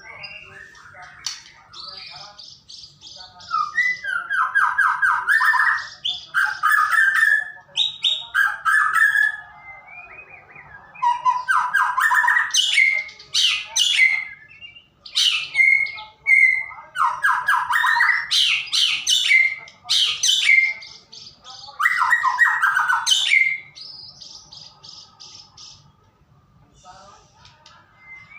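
White-rumped shama singing a loud, varied song: phrases of rapid trills and sharp whistled notes with short pauses between, growing quieter near the end.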